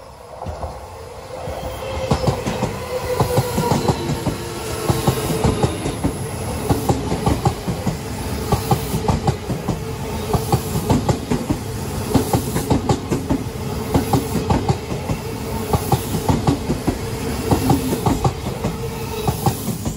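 Odakyu Line commuter electric train passing close by, its wheels clattering rapidly over the rail joints over a steady tone. It comes up about two seconds in and drops off at the very end as the last car goes by.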